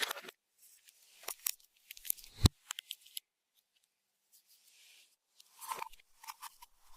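Scattered soft clicks and crackles of slime being handled and worked, with one sharper tap about two and a half seconds in.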